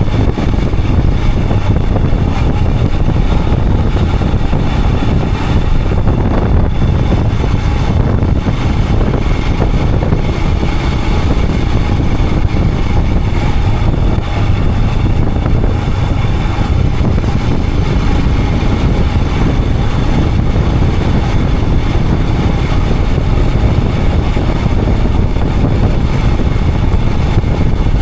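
Royal Enfield Himalayan 411's single-cylinder engine running steadily under way, mixed with heavy wind and road noise.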